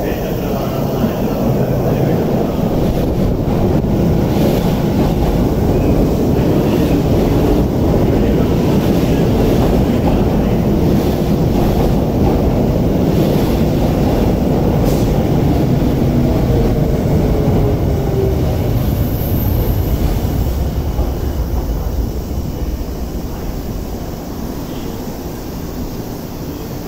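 Tokyu 5050 series electric train pulling into the platform and braking to a stop. A loud, steady rumble of wheels on rail, with a thin falling whine about two-thirds of the way through as it slows, then the noise dies down as it halts.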